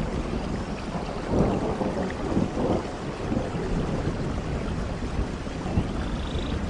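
Steady rain falling, with a low rumble of thunder that swells and fades, and a few short cracks.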